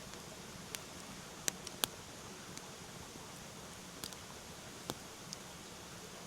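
Wood campfire crackling, with about six sharp pops at uneven intervals over a steady hiss.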